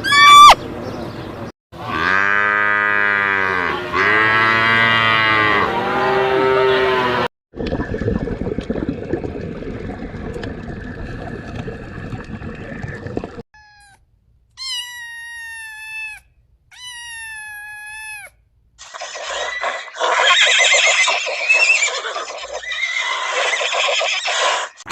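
A run of separate animal calls cut one after another. First a cow mooing three times in long low calls, then other animal sounds, including two short high calls that fall in pitch.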